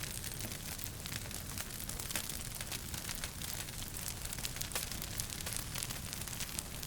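Wood fire crackling in a fireplace: many small, irregular pops and snaps over a steady hiss and low rumble of the burning fire.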